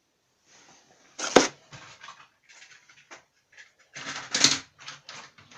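Plastic model railway coaches being handled on the track: irregular clicks and rattles, with one sharp click about a second and a half in and a louder cluster of clicks near four and a half seconds.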